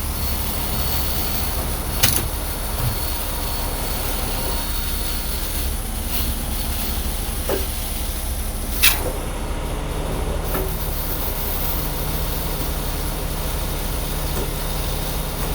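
Heavy-duty tow truck diesel engine running at a steady low rumble, with two sharp metallic clicks, about two seconds and nine seconds in. A steady hum joins about ten seconds in.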